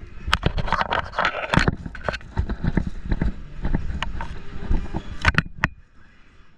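Running footsteps and clatter of an airsoft player on the move, with many sharp knocks and two louder cracks a little after five seconds, then quieter near the end.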